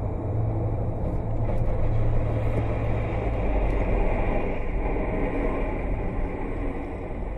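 Steady running and road noise of a moving vehicle: a low rumble with a constant hum underneath, the low hum easing a little past the middle.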